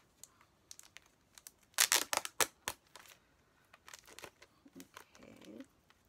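Plastic album packaging crinkling and crackling as it is handled and opened, in scattered sharp bursts that are loudest about two seconds in.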